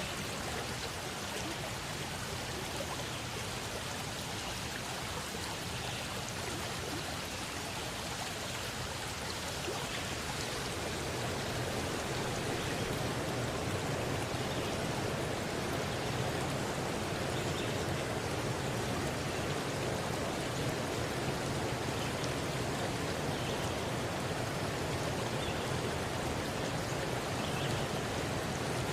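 River stream rushing steadily over rocks. About ten seconds in it grows fuller and a little louder.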